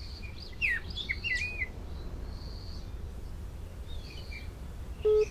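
Birds chirping in short calls over a steady low outdoor rumble, busiest in the first couple of seconds. A single short beep sounds near the end.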